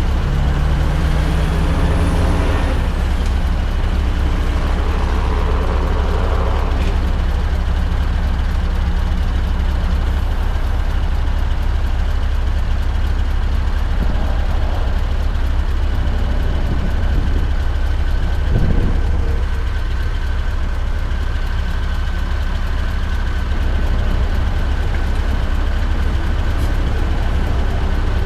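Scania R580's 16-litre V8 running through an 8-inch straight-pipe exhaust, a loud, steady low drone.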